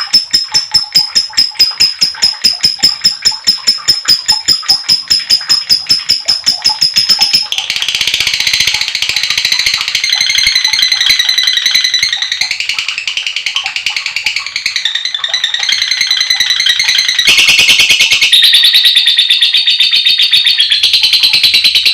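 Lovebird ngekek: a long, shrill, rapid chatter. It opens with a fast, even run of repeated high notes. About seven seconds in it turns into a denser continuous chatter, which gets louder again about three-quarters of the way through.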